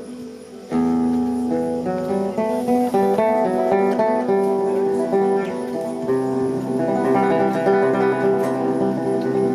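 Music played on a plucked string instrument, likely guitar: quick runs of single notes over a low held note. The music gets suddenly louder under a second in, when the low note comes in.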